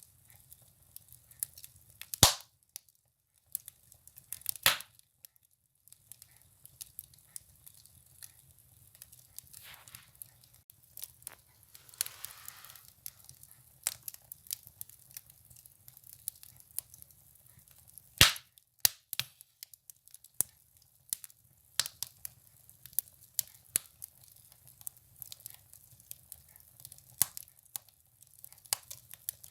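Firewood burning in a stove, crackling with scattered small pops and a few loud sharp cracks: about two seconds in, near five seconds and about eighteen seconds in. A short hiss comes about twelve seconds in, over a faint low steady rumble.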